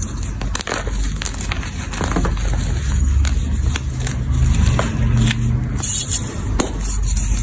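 Blocks of gym chalk being crushed and crumbled by hand, crackling and crunching in many small sharp clicks over a low rumble.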